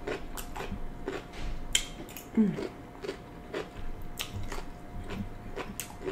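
Close-up crunchy chewing of marinated Asian cucumber slices, with wet crunches about twice a second over a faint steady hum.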